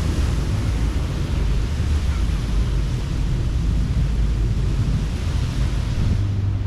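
Surf washing on a beach, a steady rushing wash, with wind buffeting the microphone as a low rumble underneath.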